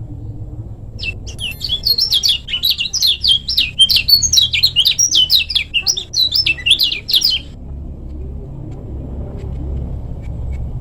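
Lemon-bellied white-eye (kecial kuning) singing a fast, dense twittering run of quick rising and falling notes for about six seconds, starting about a second in. A steady low rumble runs under it.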